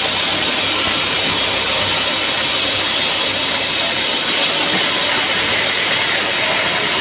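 Machinery running steadily and loudly, a dense mechanical noise with no clear rhythm. It grows slightly duller about four seconds in.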